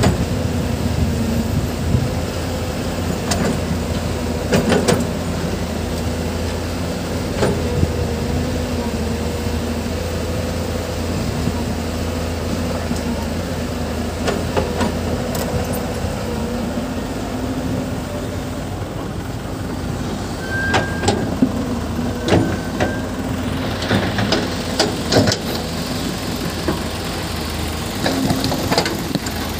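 Diesel engine of heavy construction machinery, most likely an excavator, running steadily with a low hum and a wavering note. Scattered sharp knocks and clanks come through it, more of them near the end.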